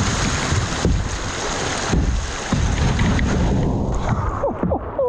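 Rushing river rapids around a kayak, with wind buffeting the microphone in a heavy low rumble. The noise eases near the end.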